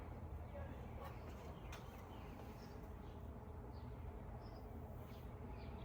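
Faint birds chirping now and then, short high chirps scattered over a steady low background noise.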